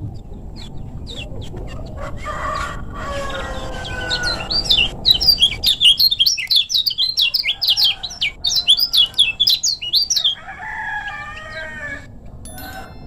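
Kecial kuning (white-eye) singing a fast run of high, sharp chirps, about four a second, for some six seconds in the middle. Lower, wavering calls come before and after it.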